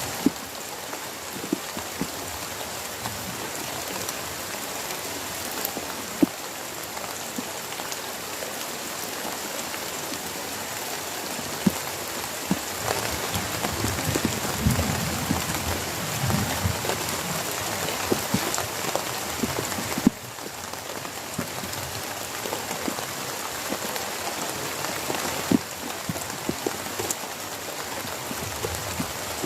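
Heavy rain falling steadily, with frequent sharp taps of large drops striking close by.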